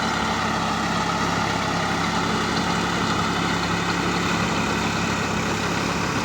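Swaraj 960 FE tractor's three-cylinder diesel engine running steadily at an even engine speed.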